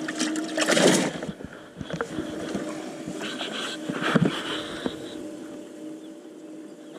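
Steady hum of a small electric motor aboard a bass boat, with a loud rushing, splashy burst just under a second in and a shorter one about four seconds in.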